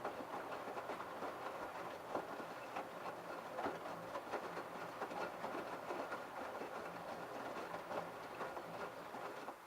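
LG F1222TD direct-drive washing machine drum turning the wet load, with water sloshing and an irregular clatter of splashes and knocks over a faint motor hum. It stops suddenly at the very end.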